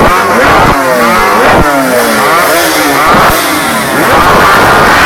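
Several motorcycle engines revving at once, very loud, their pitch repeatedly rising and falling away in overlapping sweeps.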